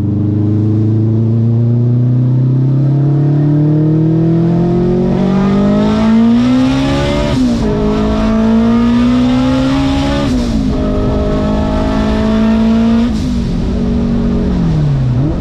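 Engine of a 900 hp street car pulling under hard acceleration: the revs climb steadily, drop at a gear change about seven seconds in, climb again and drop at a second shift about ten seconds in, hold steady, then fall away near the end as it slows.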